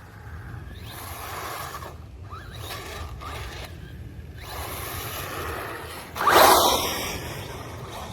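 Evmore 1:16 4WD brushless RC car driving in short bursts, its motor whirring and tyres scraping over the ground, with the loudest burst about six seconds in.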